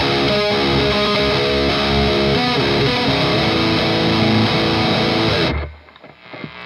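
Electric guitar overdriven by a Noise Pollution Skull Driver V2 pedal into an EVH Iconic amp, chords and riffs ringing out, then cut off sharply about five and a half seconds in.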